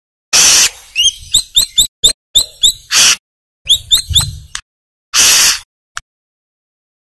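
Brown-throated sunbird (kolibri kelapa) calling loudly: quick runs of sharp rising chirps, broken by three harsh, rasping bursts of about half a second each.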